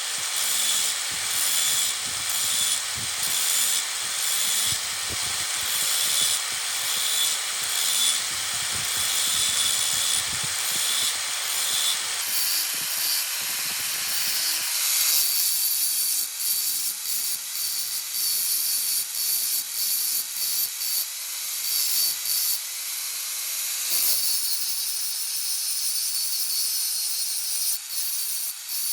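A power tool grinding steel from an old stapler, a steady high hiss that changes in tone about twelve and fifteen seconds in and again near twenty-four seconds.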